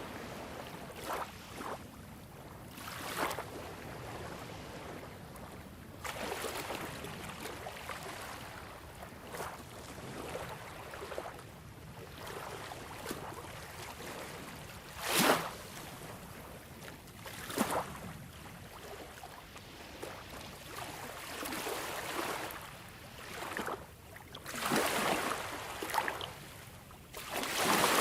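Sea water washing in irregular swells, with two sharper splashes about halfway through and a bigger surge near the end.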